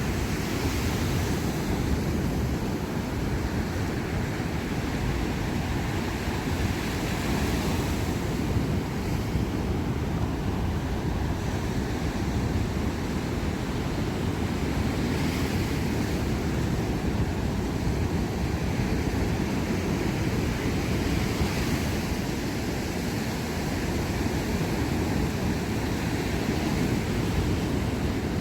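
Sea waves washing and breaking on the shore in a steady wash of surf, with wind rumbling on the microphone underneath.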